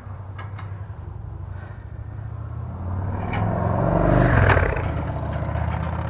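Motor vehicle running with a low rumble that swells to a peak about four seconds in and then eases off, with a few light clicks and a clatter.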